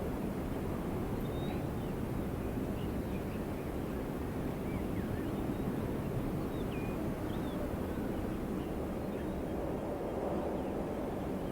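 Steady low rush of wind, with a few faint, high bird chirps scattered over the first several seconds.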